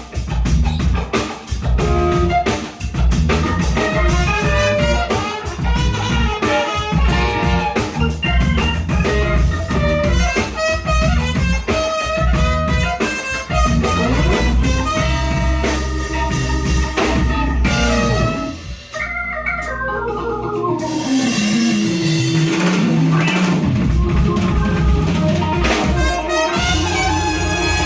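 Live soul-jazz band playing an organ-led groove with drums, bass, guitar, trumpet and saxophone. About two-thirds of the way in the drums drop out and a single held tone slides down in pitch and back up, then the full band comes back in.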